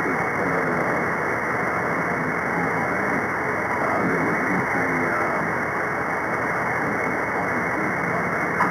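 CB radio receiver on the free band above channel 40 giving steady hiss and static between transmissions, with faint, garbled voices of distant skip stations buried in the noise.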